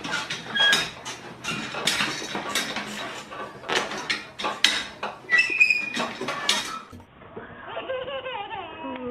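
A rapid, irregular clatter of knocks and clinks, with a few ringing clinks about five to six seconds in. About seven seconds in it cuts to a voice.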